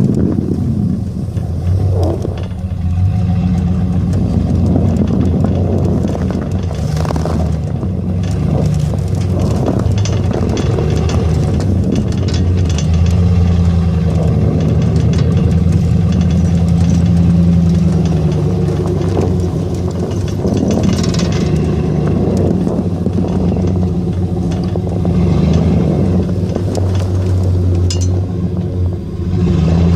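Engine of a snow-plowing vehicle running steadily, its pitch rising and falling with the throttle.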